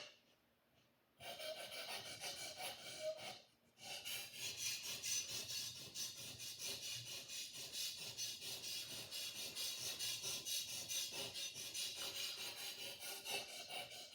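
A sword blade being sharpened: quick, even rasping strokes, about four a second, with a short break a few seconds in. There is a brief click at the very start.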